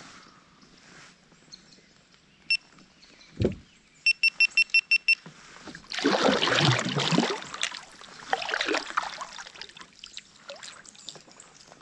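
A single short electronic beep, a low thump, then a quick run of seven identical beeps, followed by loud water splashing from a kayak, with a smaller splash a moment later.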